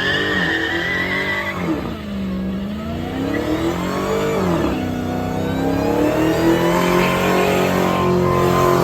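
Car engine revving hard during a burnout, its pitch dropping and climbing several times before being held at high revs near the end. Tyres squeal for the first second or so.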